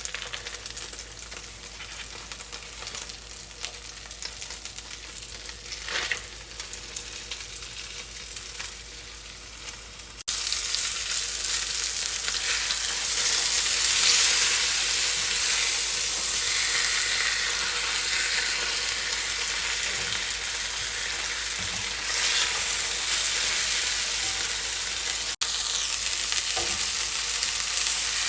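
Breaded cubed steaks frying in hot oil and butter in a skillet: a steady sizzling hiss that jumps much louder about ten seconds in.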